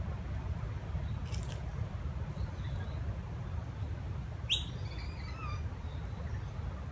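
Wild birds calling: a brief high call about a second and a half in, then a sharp downward-sweeping call followed by a few short chirps about halfway through, over a steady low rumble.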